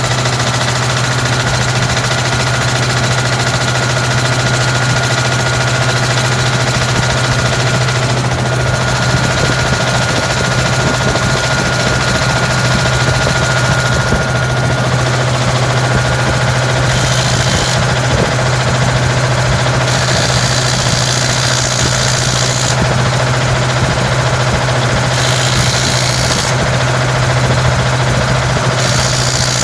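Tub grinder's engine running steadily through its newly fitted exhaust, a constant low drone. In the second half a high hiss comes and goes several times over it.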